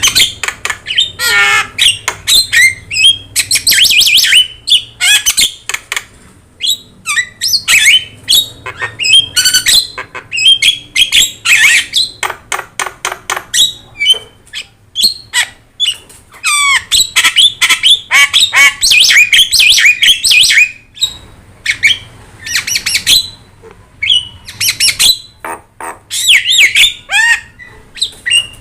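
Javan myna (jalak kebo) in full, vigorous song: a fast, varied stream of harsh squawks, chattering clicks and whistled notes that bend up and down, with only brief pauses.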